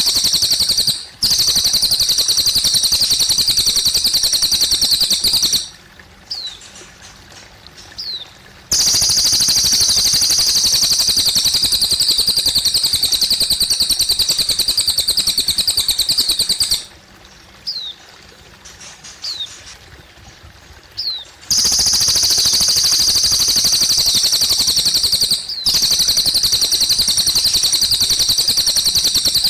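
Cililin songbird singing long bouts of a very fast, high, buzzing trill, each lasting several seconds, with short falling chirps in the pauses between them. Trickling water runs steadily underneath.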